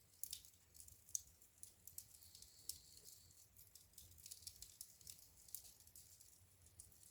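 Wood fire in a fireplace crackling: faint, irregular snaps and pops, the sharpest about a second in.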